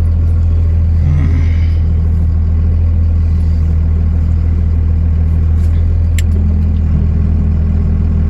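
Pickup truck engine running steadily at low speed with a deep, even drone, heard from the cab. About six seconds in a slightly higher hum joins it.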